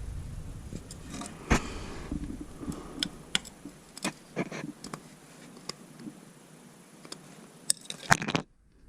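Scattered sharp metallic clicks and scrapes of a screwdriver prying at the E-clips that retain the oil cooler line fittings, the loudest about a second and a half in and a cluster near the end, where the sound cuts off suddenly.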